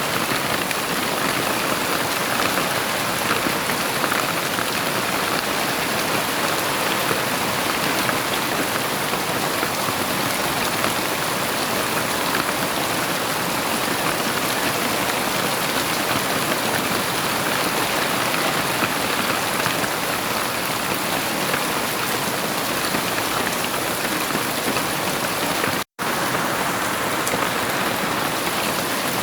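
Heavy rain falling steadily, a dense even hiss with no thunder. About 26 seconds in, the sound cuts out for an instant and comes straight back.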